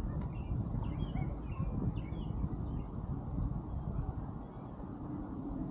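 Birds chirping, with a thin, rapid high chirping, over a steady low rumble of wind noise.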